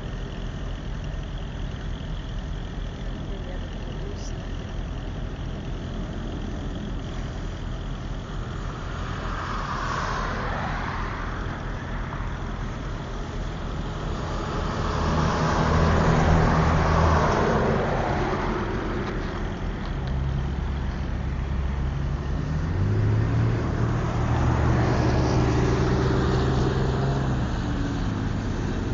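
Road traffic: vehicles with engines running pass by one after another, each swelling and fading over a few seconds. A heavy engine's low drone grows louder about halfway through.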